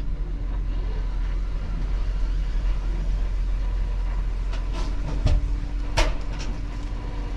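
A vehicle engine running steadily with a low rumble, with a few short knocks or clicks about five to six seconds in.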